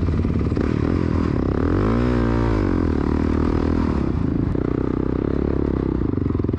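Dirt bike engine running, its revs rising and falling once about two seconds in, then settling back to a steady run.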